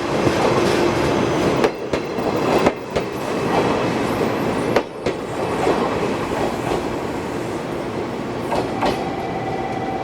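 Passenger coach of a locomotive-hauled train running on the line, with a steady rumble and sharp wheel clicks over rail joints in the first half that thin out later. A faint steady tone comes in near the end.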